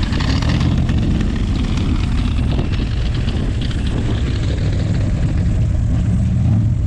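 Classic American cars' engines running with a steady low rumble as the cars roll slowly past in a line.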